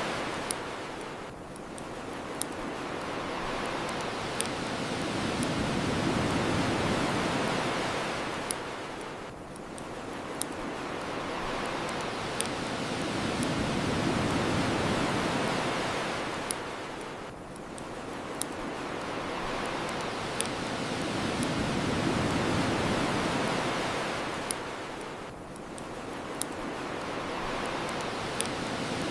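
Ocean waves breaking and washing up the shore, the rush swelling and ebbing about every eight seconds. A bonfire's sharp crackling pops come through about every two seconds.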